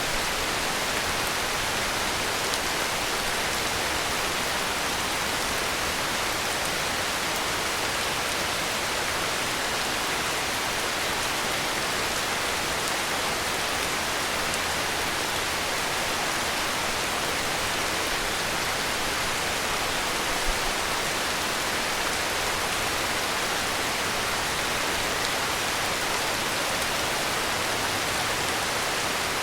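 Heavy rain falling in a steady, dense hiss, with no thunder or other distinct sounds.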